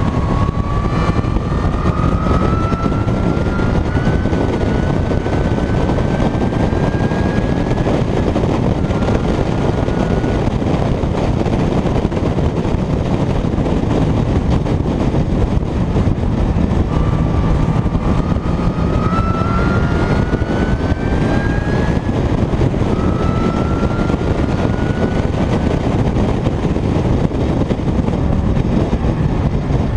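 Onboard sound of a Mazda MX-5 roadster accelerating hard on track. The engine's pitch climbs steadily for several seconds under heavy wind noise, then breaks off and climbs again at each gear change; this happens twice.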